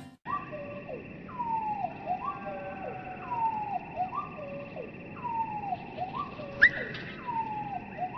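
Songbird song played back in slow motion, so it sounds low and drawn out: a falling, sliding note followed by short lower notes, repeated about once a second. A sharp click about two-thirds of the way through is the loudest sound, and a steady high hum runs under it all.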